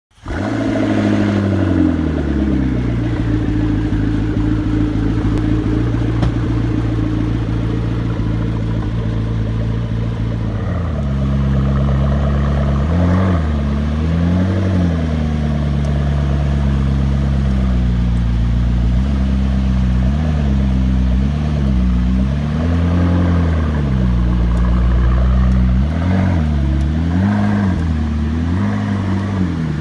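McLaren MP4-12C's twin-turbo V8 cruising at low speed with turbo whistle. Its pitch drops at the start and holds steady for about ten seconds, then rises and falls over and over as the throttle is worked. The turbo sounds are louder than on most 12Cs, which the uploader puts down to a custom exhaust.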